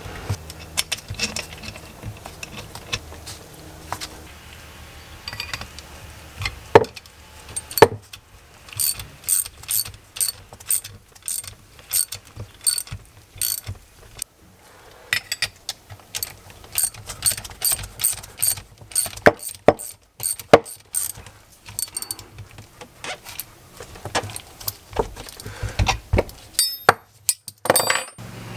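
Hand tools and metal brake-caliper parts being worked, making a dense run of sharp, irregular metallic clicks and ratchet-like clacks, with a few louder knocks near the end.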